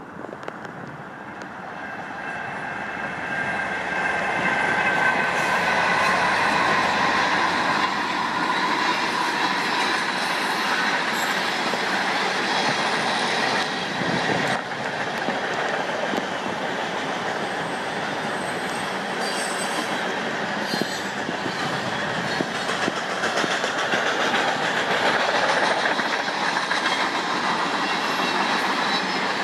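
Grain train of covered hopper cars rolling past, its steel wheels rumbling and clattering on the rails. The sound builds over the first few seconds and then holds steady, with a thin high wheel squeal in the first half.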